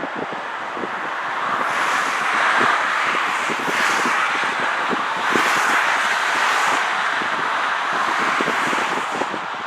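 Motorway traffic noise: tyre and engine sound of vehicles passing at speed, swelling about two seconds in and easing near the end, with wind buffeting the microphone.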